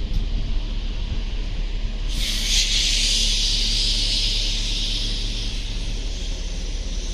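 Compressed air hissing out of a train at a railway station, starting suddenly about two seconds in and easing off after a few seconds, over a steady low rumble.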